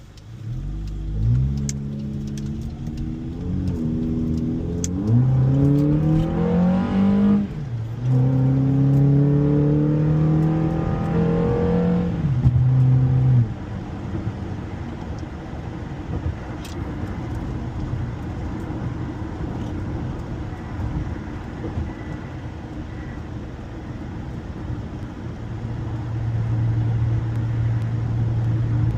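Honda car engine accelerating hard through the gears, its pitch climbing in pulls broken by gear changes about 4 and 7.5 seconds in. About 13 seconds in the throttle lifts, and the car settles to a steady cruise hum with road noise.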